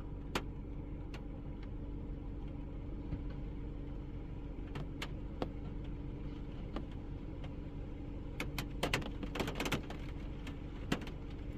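A steady low mechanical hum with a few held tones, with scattered sharp taps and clicks over it that come thicker about two-thirds of the way in.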